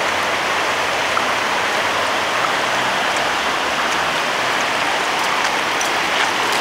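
Steady rushing of running floodwater.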